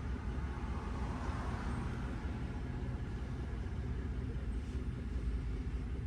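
The 5.4-litre V8 of a 2004 Ford F-150 idling with a steady low rumble. It is running on eight new ignition coils, its cylinder 8 misfire cured.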